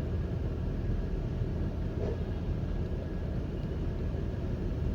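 Steady low mechanical rumble with no distinct events.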